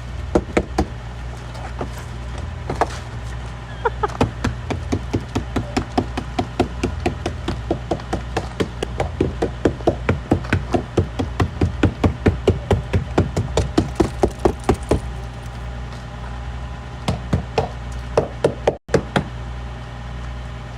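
A hammer knocking repeatedly on a frozen car door to break the ice loose, in fast runs of about three strikes a second with short pauses between runs. A steady low hum sits underneath.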